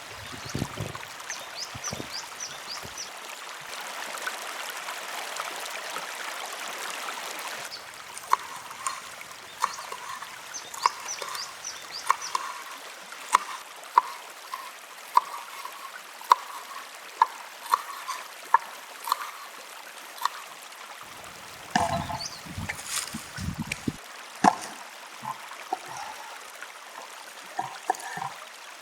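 Stream water running steadily, with a run of sharp taps about once a second from about a quarter of the way in, and a few low thumps near the end.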